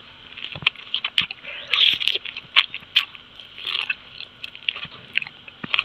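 Biting into and chewing a whole strawberry right at the microphone: a quick run of sharp wet mouth clicks and squelches, with louder bites about two and four seconds in.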